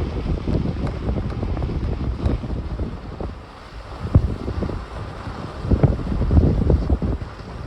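Wind buffeting the microphone in uneven low gusts, easing off a little past three seconds in and picking up again with stronger gusts near the end.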